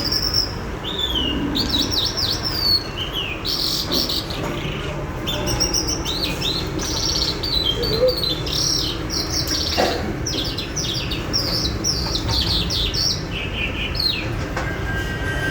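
Small birds chirping and twittering in quick, overlapping bursts of high, short notes and slurred calls, over a steady low background noise.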